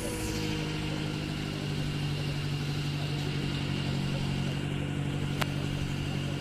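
2020 BMW X5 M Competition's 4.4-litre V8 settling from its start-up flare into a steady high idle, the revs easing down slightly in the first second. A single short click about five seconds in.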